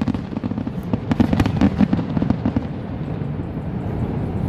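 Fireworks display going off: a rapid run of crackling pops and booms in the first half, thinning into a steady rumble of distant bursts.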